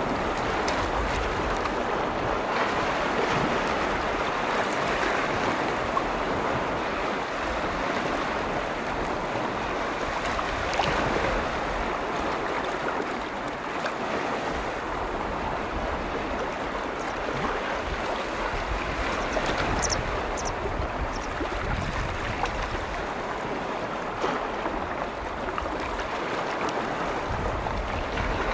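Waves on a large lake: a steady, continuous wash of water.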